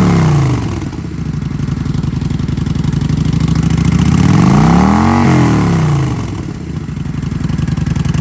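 Kawasaki Vulcan 900 Custom's liquid-cooled, fuel-injected V-twin idling and being blipped: it settles from a rev at the start, runs at a steady idle, then revs up once and falls back about five seconds in.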